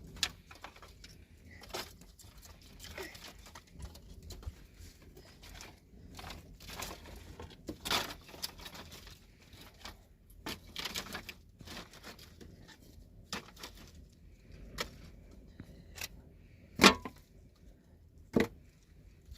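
Irregular sharp clicks and knocks with some rustling between them. The loudest knock comes about seventeen seconds in, followed by another shortly after.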